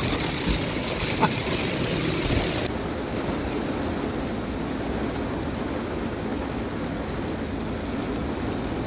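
Heavy rain falling on a vehicle, heard from inside the cabin: a steady rushing noise with a couple of short clicks in the first second or so. The higher hiss dulls about three seconds in.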